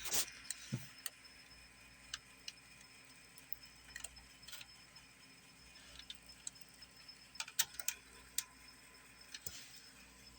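Faint, irregular clicks and ticks from a Sound Technologies TR-200 cassette recorder as its tape turns but plays no music.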